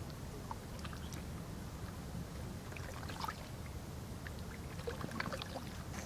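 Water lapping and splashing in small, irregular bursts over a steady low rumble.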